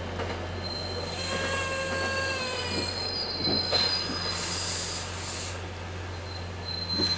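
Commuter train's wheels squealing on the rails: high, steady squeals set in about a second in, hold for a few seconds and come back briefly near the end, over a steady low hum.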